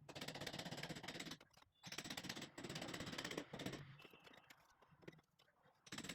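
Rapid rattling mechanical noise in stop-start bursts of about a second each, typical of a drill working into a masonry wall.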